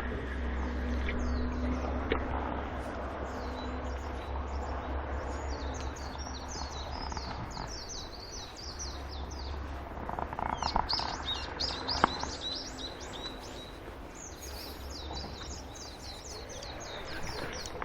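Small birds chirping and twittering in rapid runs of short high notes, over a steady low rumble. A single sharp click comes about 12 seconds in.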